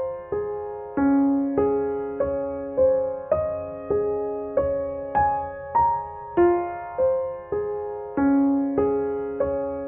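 Background music: a gentle solo piano or electric piano playing a slow, even run of single notes, each one struck and fading before the next.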